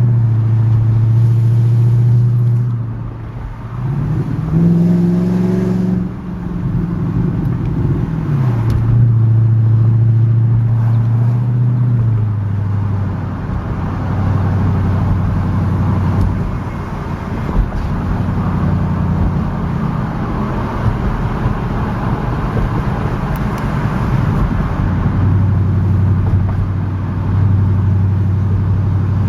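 2001 Audi S8's 4.2-litre V8 with its exhaust separated ahead of the mufflers, so the mufflers are bypassed and the exhaust is loud and unmuffled while driving. The engine note climbs in pitch a few times early on, as the car accelerates through the gears, then settles into a steady low drone at cruise.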